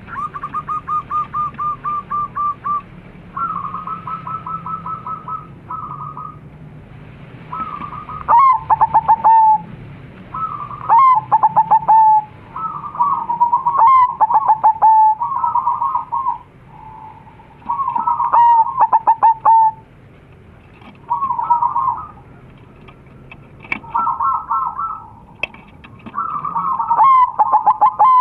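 Crossbred zebra doves (perkutut) cooing back and forth. Rapid, even runs of short notes alternate with louder rolling coo phrases every few seconds.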